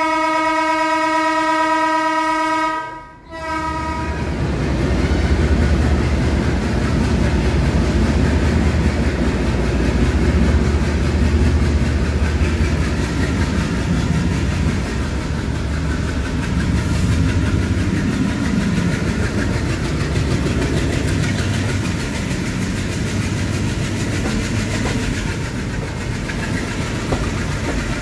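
ALCO diesel locomotive's horn sounding one long note, which cuts off about three seconds in. After a brief dip comes the steady rumble of the train running, with wheels clattering over the rail joints.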